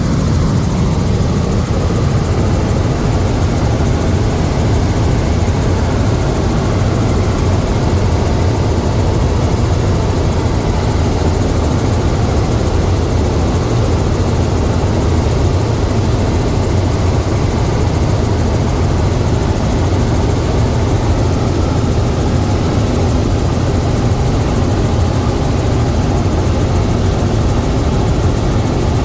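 Helicopter running steadily: a loud, constant drone, heaviest in the low end, with no let-up.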